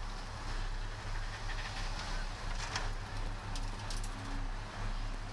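Heavy diesel engine of a bulldozer or dump truck running at low revs, pulsing about twice a second, with a few sharp metallic clicks in the middle.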